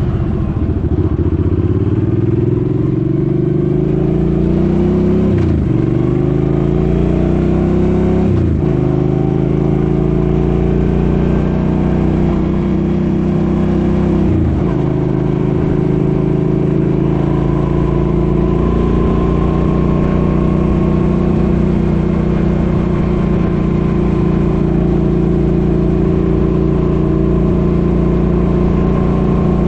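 Suzuki Boulevard M50 V-twin motorcycle engine pulling away and accelerating, its pitch rising and dropping with three upshifts in the first fifteen seconds, then running steadily at cruising speed.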